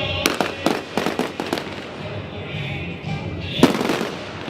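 Fireworks going off: a quick run of sharp bangs and crackles in the first second and a half, then a single louder bang about three and a half seconds in.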